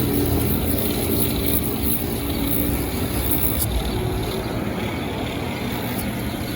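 Motor-driven sanding machine running steadily as a rubber heel cut from aircraft-tyre rubber is sanded to roughen it for glue. The high hiss of the sanding changes about three and a half seconds in.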